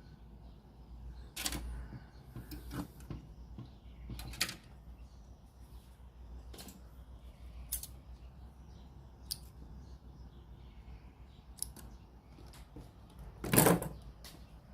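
Scattered clicks and light knocks from hands working on a radio cassette player and its tools, about one to two seconds apart, with a louder knock near the end over a low hum.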